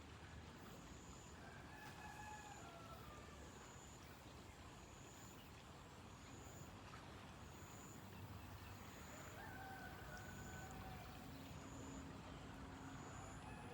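A rooster crowing faintly, twice, with a third call starting near the end, over a steady low background hum. A faint high-pitched chirp repeats evenly about every three quarters of a second.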